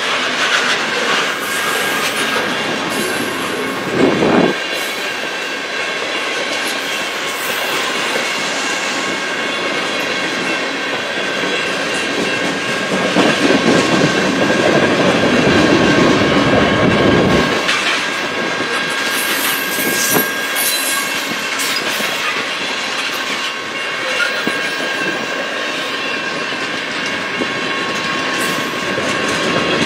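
Freight cars of a mixed freight train rolling past steadily: wheels clattering over the rail joints and crossing, with occasional high wheel squeals, loudest around the middle. A grade-crossing signal bell keeps ringing as a steady tone underneath.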